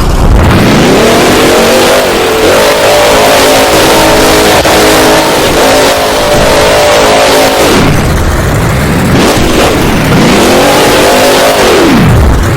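Goldberg monster truck's supercharged V8 engine revving hard. The pitch climbs and holds high, drops off sharply several times and climbs straight back. The sound is very loud and distorted.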